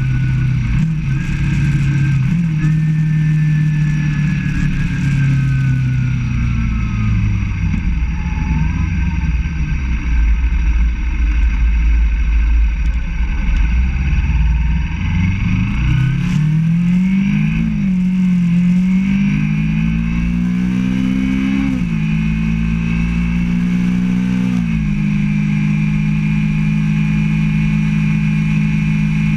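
Motorcycle engine on the move. Its note falls as the bike slows, then climbs as it accelerates, dropping at each of three gear changes, and settles into a steady cruise for the last few seconds. A low wind rumble on the microphone is strongest in the middle, while the engine note is low.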